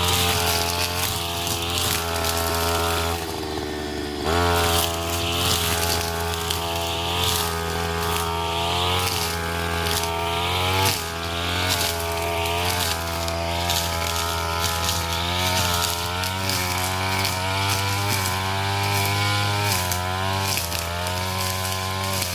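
52 cc two-stroke brush cutter running at high revs while cutting grass and weeds, its engine pitch rising and falling as the throttle and cutting load change. It drops off briefly about three seconds in and revs back up about a second later.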